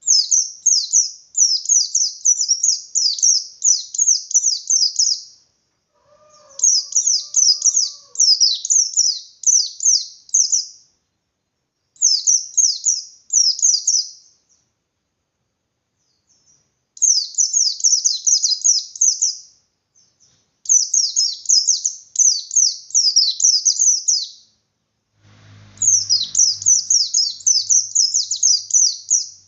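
A pleci bustomi white-eye singing its fast 'ngalas' song: long runs of rapid, high chirping notes in bursts of a few seconds, separated by short pauses, six runs in all.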